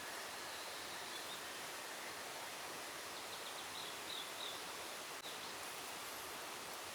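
Steady hiss of forest ambience, with a few faint high bird chirps about halfway through and a single small click near the end.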